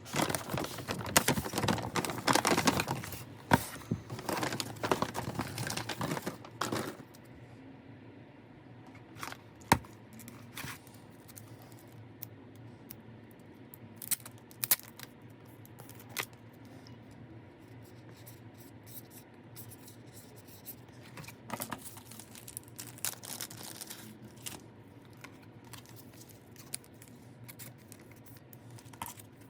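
Packaging being torn open and crinkled by hand for about seven seconds, then scattered light taps and clicks as the contents are handled.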